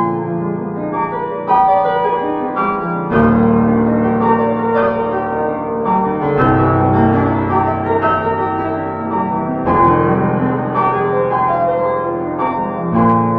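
Instrumental piano music: a steady flow of notes over bass notes that change about every three seconds.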